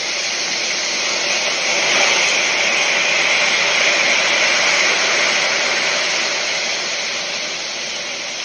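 Storm noise: a loud, steady rushing hiss of wind and rain on the microphone, starting abruptly and holding without a break.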